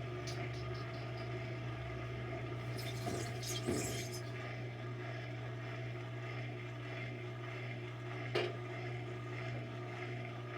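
8 kg washing machine spinning out of balance, with a steady hum. A scraping clatter comes about four seconds in and a sharp knock comes near the end. The owner puts the imbalance down to the machine having lost two of its suspension springs.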